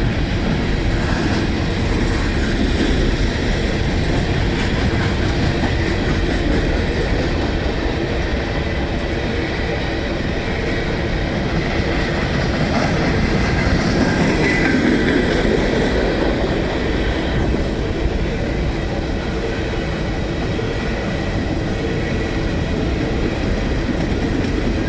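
Freight cars of a unit train rolling past on the rails, with steady wheel-on-rail noise throughout.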